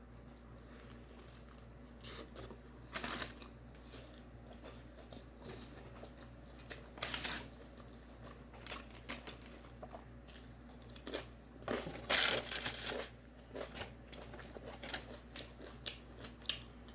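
Close-up eating noises: scattered crunches, crinkles and mouth sounds of someone chewing and handling food, coming in short irregular clusters, the longest just past the middle.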